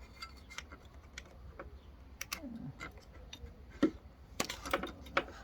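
Scattered light clicks and taps of small mower parts being handled as the fuel line is disconnected, with a sharper knock about four seconds in and a quick run of clicks just after it.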